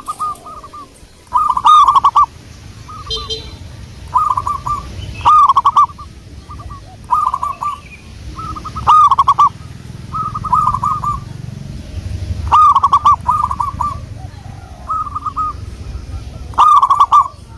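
Zebra dove cooing: repeated short phrases of quick stuttering coo notes. Loud phrases come every few seconds, with softer phrases between them.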